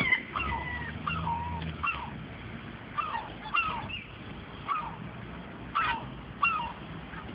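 Fighting birds calling over and over: short calls that each drop in pitch, about one or two a second.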